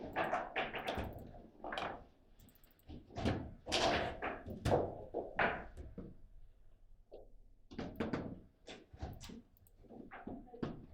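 Table football play: irregular thuds and knocks as the ball is struck by the players' rods and bangs against the table walls, with a short lull about two-thirds of the way through.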